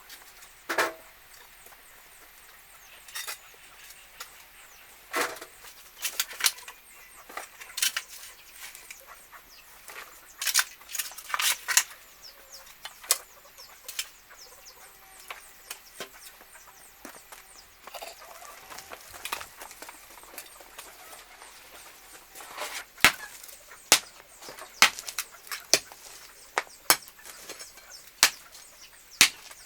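A series of sharp knocks and taps, irregular and scattered at first, then louder and coming about once a second near the end.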